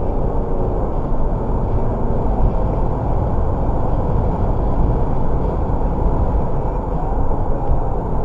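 Freight train rolling past: a steady, loud low rumble of wheels on rail.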